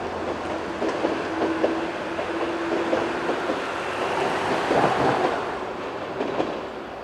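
103 series four-car electric train passing, its wheels clattering over the rail joints, with a steady tone from about one to three seconds in. The sound eases off near the end.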